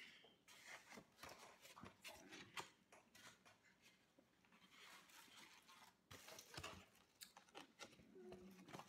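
Faint eating sounds: chewing and crunching, with scattered small clicks and rustles.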